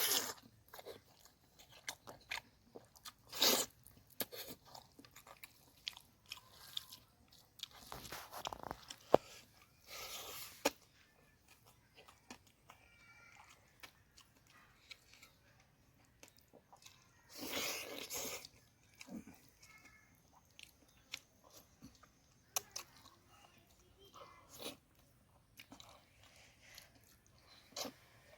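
Close-miked eating: a person biting and chewing food, with intermittent crunches and wet mouth clicks, and a couple of louder noisy bursts partway through.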